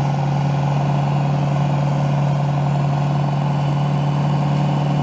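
Toyota Hilux pickup engine held at steady high revs in a third-gear burnout, the rear wheel spinning in place. The pitch stays constant throughout.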